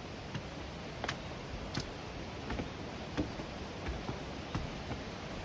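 Footsteps on a trail, a sharp step about every 0.7 s, over a steady hiss.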